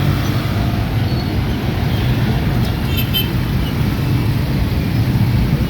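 Street traffic with motorcycles running, a steady low rumble, and two short high-pitched sounds about three seconds in.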